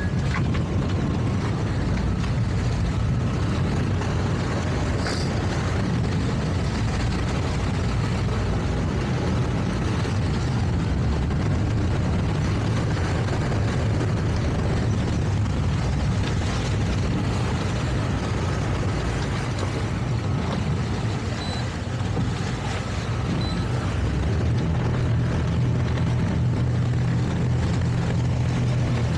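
Towboat engine drone under way with a boat in tow, steady and low, over a constant hiss of wind and water. The engine hum grows a little stronger near the end.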